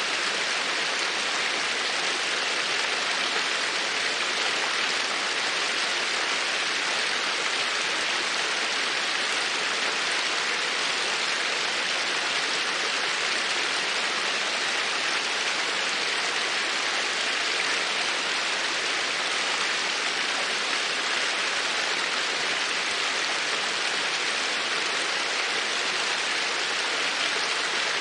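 Steady, even water noise, a continuous rush with no breaks or tones.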